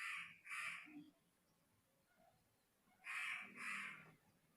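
A crow cawing faintly: two caws at the start and two more about three seconds in.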